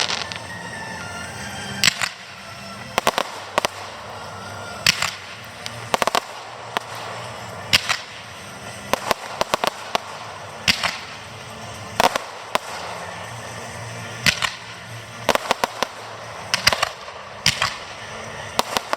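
Aerial fireworks shells bursting overhead in a display: sharp bangs about once a second, irregular, some coming in quick doubles and triples.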